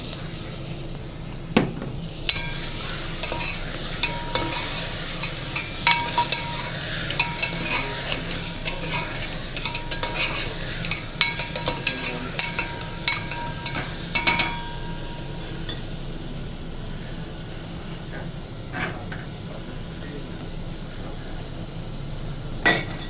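Goat meat sizzling in hot oil in a brass pot, with chopped tomatoes just added, while a metal ladle scrapes and clinks against the pot as it is stirred. The sizzle eases off after about fifteen seconds, and the clinks thin out with it.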